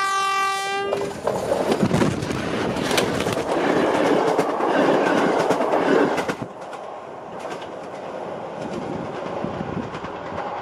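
SU45 diesel locomotive's horn sounding, cutting off about a second in, then the loud rumble and clatter of the train passing right over the ground-level camera, with sharp knocks as the camera is struck and knocked over. After about six and a half seconds it drops to a quieter, steady rumble.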